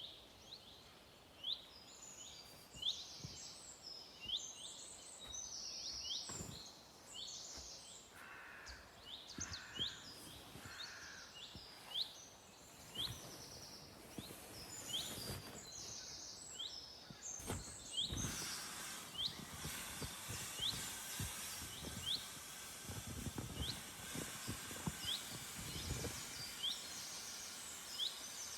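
Forest birds calling: many short, sharp notes repeated over and over, some higher and buzzier, from more than one bird. Occasional low knocks sound in between.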